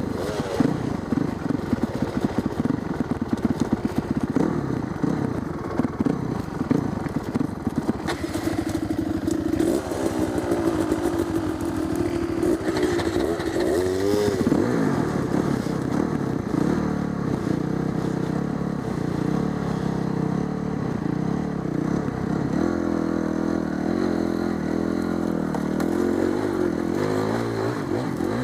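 Off-road motorcycle engine running and revving, its pitch climbing and dropping several times about halfway through, then held at a steadier rev toward the end.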